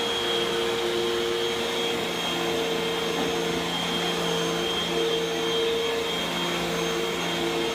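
Vacuum cleaner running steadily, its motor giving a constant whine over a rushing hiss.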